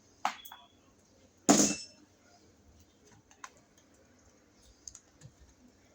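Light clicks and knocks from handwork on a wall outlet and its box, with one louder clatter about a second and a half in and a few faint ticks after.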